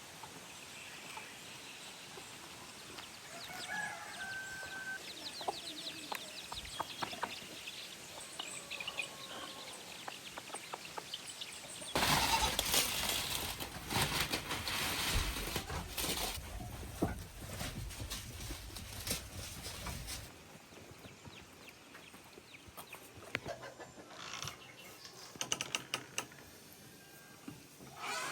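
Farmyard chickens clucking and calling, with small birds chirping. In the middle, about eight seconds of loud rustling and knocking.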